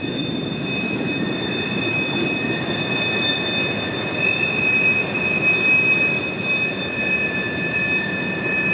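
Train rolling by with a steady low rumble from the wheels on the rails and a sustained high-pitched wheel squeal made of several tones held throughout.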